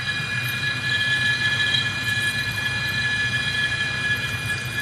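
Metal lathe parting off a 150 mm tube on slow automatic feed with a spring-loaded parting tool: a steady high squeal over the machine's running hum.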